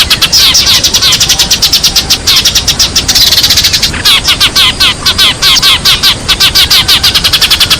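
Sparrows chirping loudly in a dense, unbroken stream of short chirps, several a second: a sparrow call recording of the kind played as a lure for trapping.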